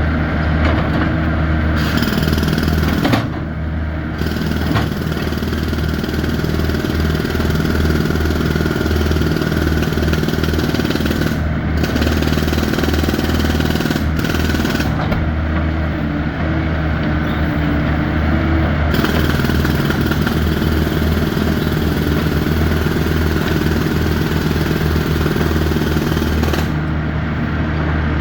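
A heavy engine running steadily and loud, with a fast, even clatter through it.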